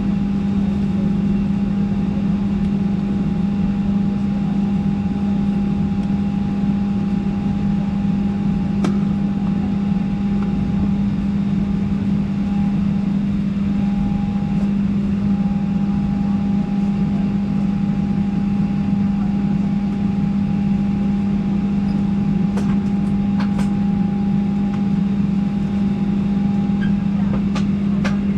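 Steady cabin hum inside a Boeing 737-800 on the ground before takeoff, with the engines and air-conditioning running. A constant low drone carries a thin steady whine above it, with a few faint clicks, mostly in the last third.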